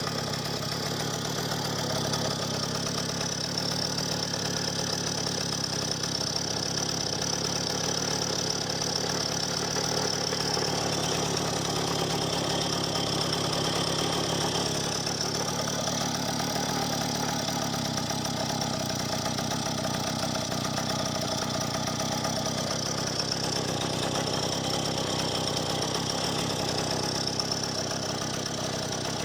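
Soviet D-8 single-cylinder two-stroke bicycle engine running on a newly fitted Novikov electronic ignition on its first start. It runs without stopping, its speed wavering a little.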